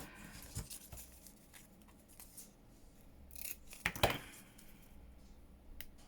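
Scissors snipping through paper, a run of small clicks and cuts, the loudest about four seconds in.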